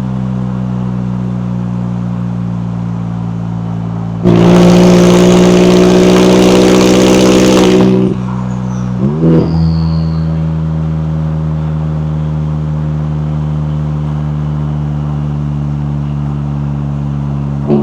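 McLaren 570S twin-turbo V8 engine and exhaust running at a steady pitch. About four seconds in it turns much louder and stays at the same pitch for some four seconds, then drops back. A short rise in revs comes near the nine-second mark before it settles to a steady tone again.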